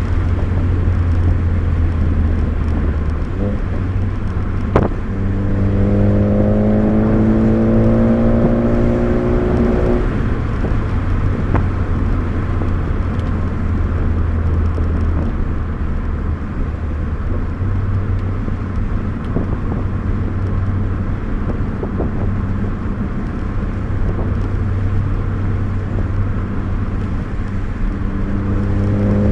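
Car engine and road noise heard from inside the cabin on a winding drive: a steady low drone, with the engine pulling up through the revs for about five seconds before dropping off sharply, as at a gear change. It starts climbing again near the end, and there is a sharp click about five seconds in.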